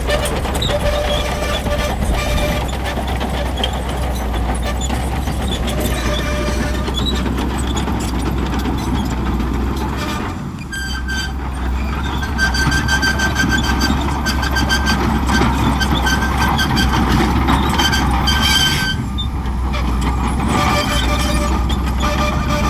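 Shantui crawler bulldozer working, its diesel engine running steadily under load. High-pitched metallic squealing comes and goes through the middle stretch.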